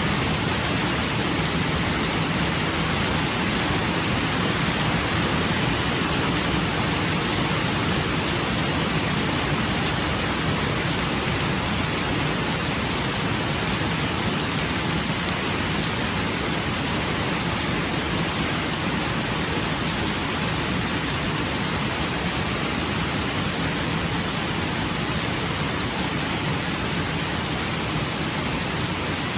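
Rain falling steadily: an even, unbroken hiss that keeps the same level throughout.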